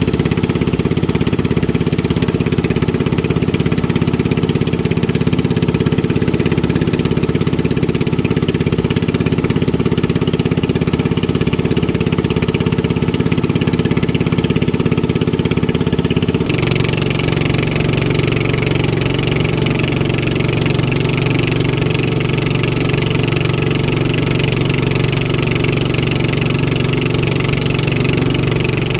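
Racing motorboat engines running steadily. About halfway through, the engine note changes suddenly to a different, lower drone.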